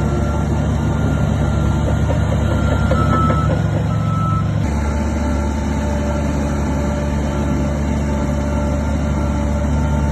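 Heavy earthmoving machinery, a diesel bulldozer and dump trucks, running with a steady low engine drone while a reversing alarm beeps repeatedly. The sound changes abruptly about halfway through.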